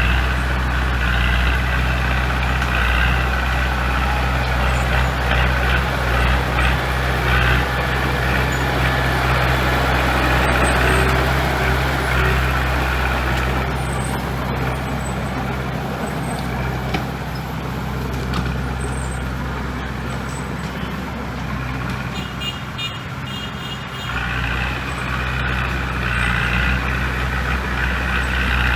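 Heavy diesel engine of earthmoving equipment running steadily, its mechanical noise easing off about halfway through and picking up again near the end.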